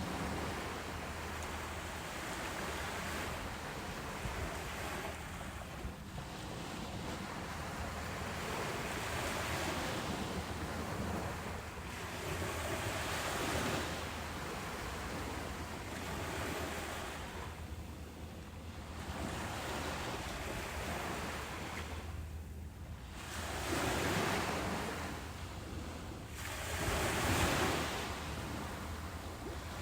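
Ocean waves breaking and washing on a beach, a steady rushing surf that swells and ebbs every few seconds, with the two strongest surges near the end.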